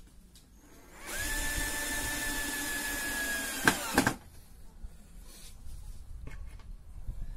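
Power drill running at a steady speed for about three seconds, with two sharp clicks just before it stops; faint small knocks follow.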